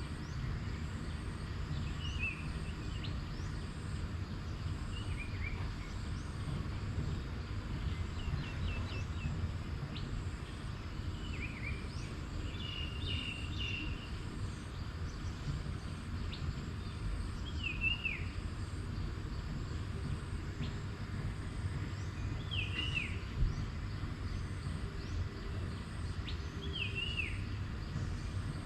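A bird repeating a short, down-slurred call every five seconds or so, with a brief burst of chirps about halfway through, over a steady low rumble.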